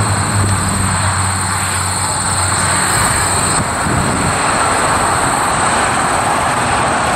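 Highway traffic passing at speed: a loud, steady roar of tyres and engines, with a low hum that drops away a little over three seconds in.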